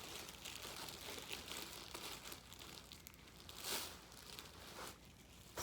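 A bag crinkling and rustling as it is handled and pulled back, with one louder crinkle a little past the middle.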